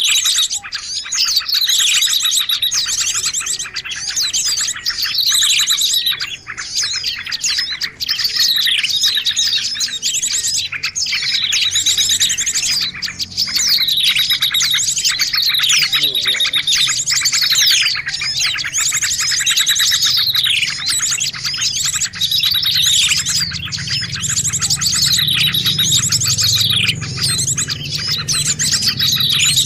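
Dense, noisy chorus of small songbirds chirping and trilling over one another, with quick falling whistled notes repeating about once a second. A low rumble joins in under the birds in the last few seconds.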